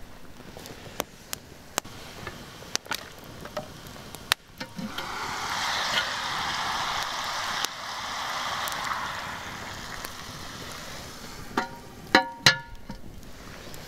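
Wood fire crackling under a cast iron pot. About five seconds in, the lid comes off and chicken frying in oil sizzles loudly for several seconds before fading. Near the end come a few sharp metal clanks with brief ringing against the cast iron pot.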